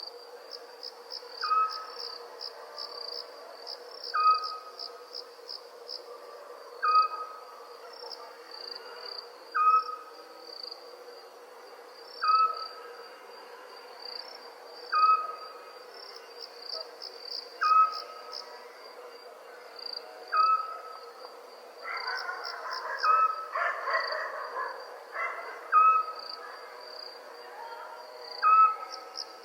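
Crickets chirping steadily in a high pulsing trill, with an owl giving a short, single-note call at regular intervals, about every two and a half to three seconds. A rougher, louder sound joins in for a few seconds around two thirds of the way through.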